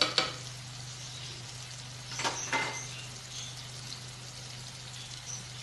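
Onion-tomato masala frying gently in a pan, a soft sizzle over a steady low hum. A couple of light clicks at the start and two clinks about two seconds in.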